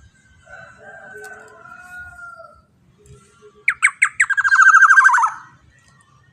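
Black-naped oriole (kepodang emas) singing. A soft, drawn-out whistle comes first. Past halfway come a few sharp notes and a loud, fast run of repeated notes about a second long.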